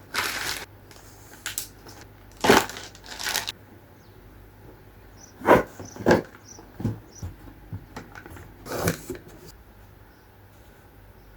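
Irregular knocks, clatters and short rustles of objects being handled and set down: a rustle at the start, a loud knock a couple of seconds in, two loud knocks around the middle followed by lighter taps, and one last knock near the end.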